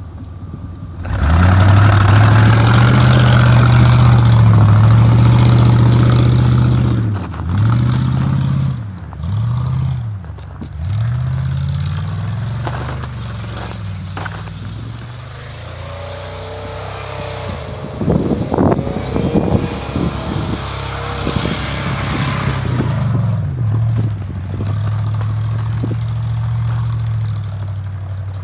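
Pickup truck engine revving hard as the truck spins donuts in snow: it climbs to high revs about a second in and holds them for several seconds, then drops and rises again in a run of short surges. Midway there is a burst of crackling and scraping, and near the end the engine settles into steady high revs.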